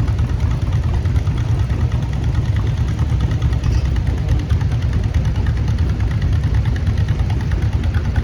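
Antique farm tractor engine running steadily at low speed.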